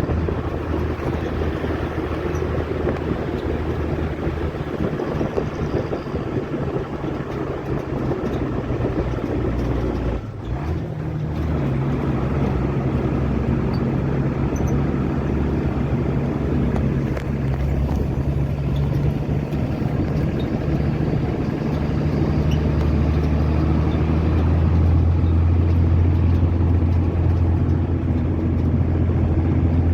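Motor vehicle running, engine hum and road noise. About ten seconds in the sound briefly drops, and the engine note then changes, like a gear change.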